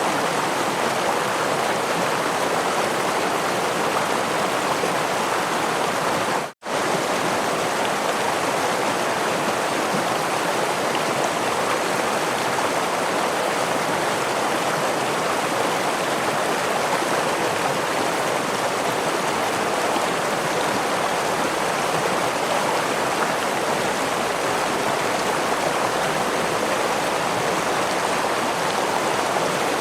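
Steady rushing of water from a forest stream and small waterfall. The sound cuts out for a split second about six and a half seconds in, then resumes unchanged.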